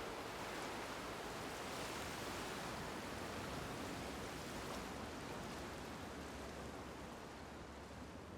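Faint, steady rushing noise with no distinct events, slowly fading toward the end.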